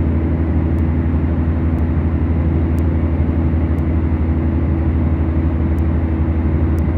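Beechcraft Duchess's twin piston engines droning steadily from inside the cabin, with faint high clicks about once a second.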